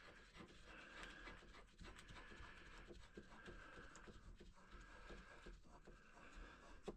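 Near silence, with faint scratching and a few small clicks.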